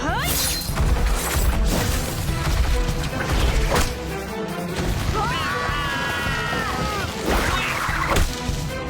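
Cartoon fight soundtrack: driving action music with a series of crash and impact sound effects, opening with a quick rising swoosh. About halfway through a held, bending pitched cry sounds for a couple of seconds.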